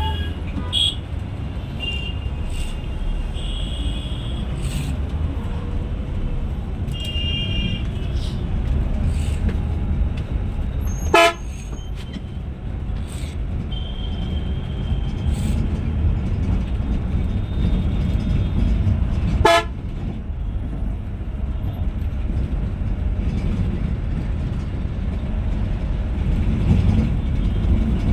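Scania Metrolink coach running with a steady low rumble. Short high horn toots sound now and then, and there are two sharp clacks, about eleven seconds in and again near twenty.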